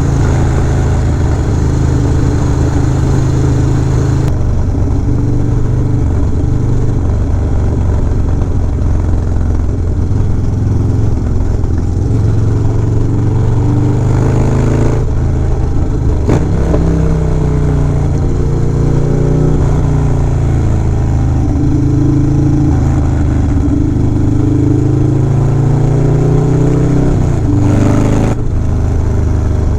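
Harley-Davidson Dyna Low Rider S V-twin motorcycle engine running under way, its pitch rising and falling several times as the throttle is rolled on and off.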